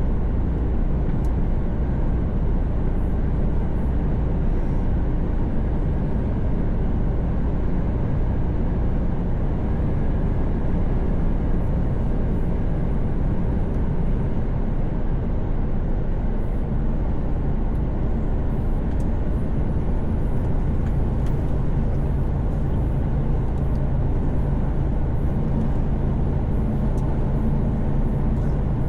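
Mercedes-Benz Actros truck heard from inside the cab at highway speed: a steady low engine drone under road and tyre noise. The engine hum grows stronger about two thirds of the way through.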